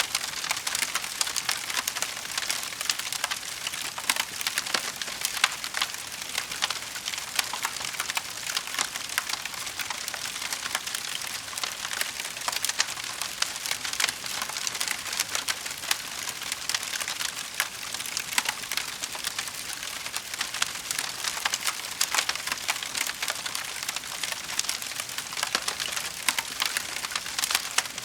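Wood fire crackling steadily in a fireplace, a dense run of small pops and snaps with a few louder cracks.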